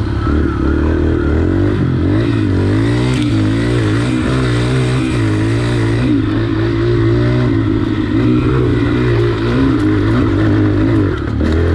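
Yamaha TT-R dirt bike's single-cylinder four-stroke engine running, its revs rising and falling unevenly as it is ridden slowly over rough ground.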